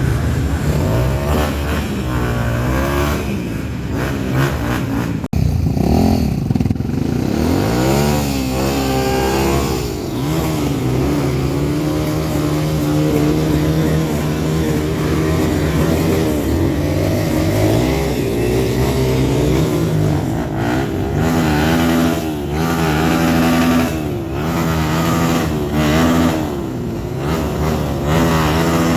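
Off-road trail motorcycles revving, engine pitch rising and falling again and again as the bikes work through marshy ground, with an abrupt break about five seconds in.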